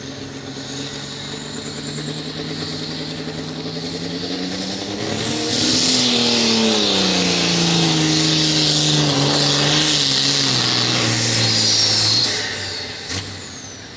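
Light limited super stock pulling tractor's diesel engine at full throttle under sled load. It climbs in pitch with a high whine, then is pulled down steadily and lugs lower until it backs off about twelve seconds in. It was in too tall a gear, which pulled the motor down too far.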